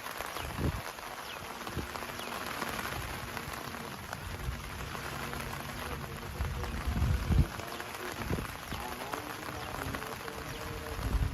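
Heavy rain falling steadily, with scattered drop ticks and a few low thumps, the loudest about seven seconds in and again near the end.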